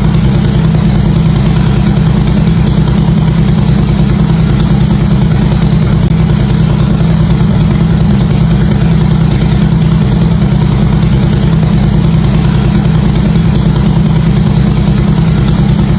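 Harley-Davidson V-twin motorcycle engine idling steadily through its exhaust, a loud, even low rumble with no revving.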